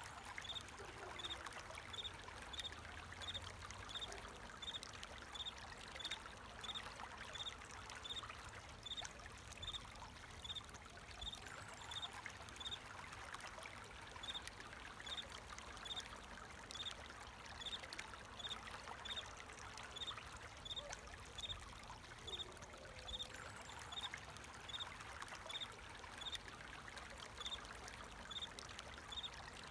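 Flowing water trickling and pouring steadily, with a cricket chirping in an even rhythm above it, about three short high chirps every two seconds.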